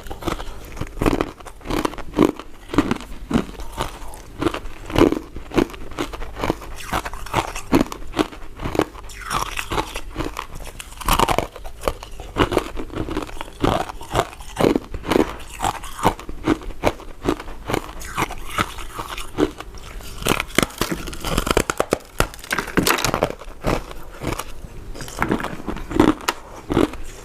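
Close-miked eating of soft, powder-coated mint sweets: continuous chewing and biting, a dense run of small mouth clicks.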